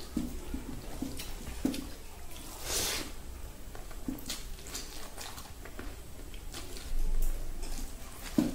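Mouth sounds of a man eating by hand close to the microphone: wet chewing and lip smacks at irregular intervals, with a brief louder noise about three seconds in.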